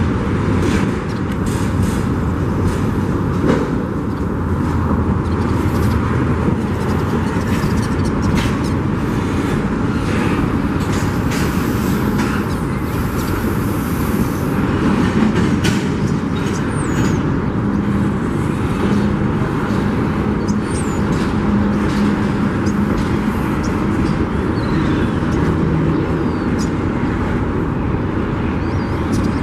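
Union Pacific freight train cars rolling past: a steady rumble of wheels on rail with many short clicks and knocks throughout.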